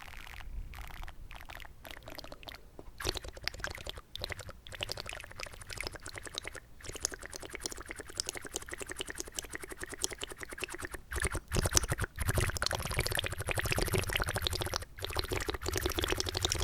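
Close-miked wet mouth sounds made with water: water swished and worked around in the mouth, giving a dense crackling and clicking, broken by short pauses and louder from about eleven seconds in.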